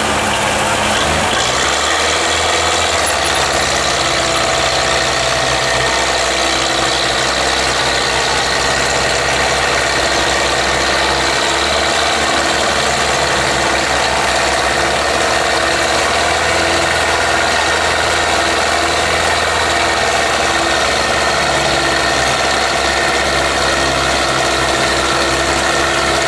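Belarus 510 tractor diesel engine running steadily at a constant speed.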